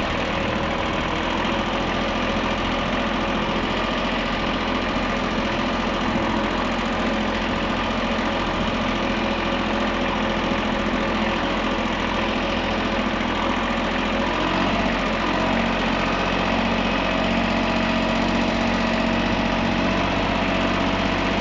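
Small three-cylinder diesel engine of a VST Shakti MT 224 mini tractor running steadily while the tractor crawls along in gear at about 1500 RPM. About two-thirds of the way in, the engine note rises slightly as it is opened up toward 2000 RPM.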